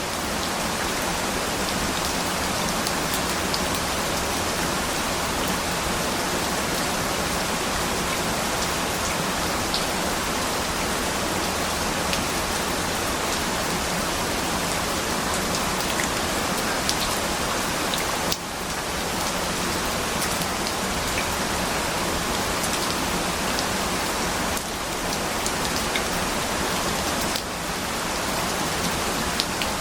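Steady rain falling, an even hiss with scattered sharp drop ticks; the level dips briefly a few times in the second half.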